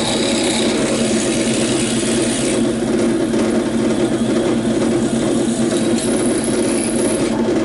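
Electric drill running steadily while drilling out holes in a truck's battery tray. A harsher, brighter cutting noise comes in for the first couple of seconds and again around six seconds in, as the bit bites.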